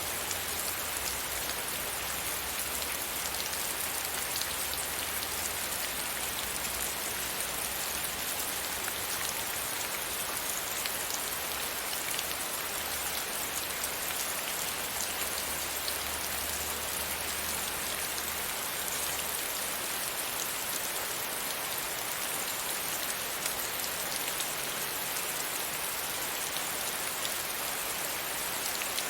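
Steady rain pattering against a window pane, a dense, even hiss of many small drop ticks, with a faint low rumble coming and going beneath it.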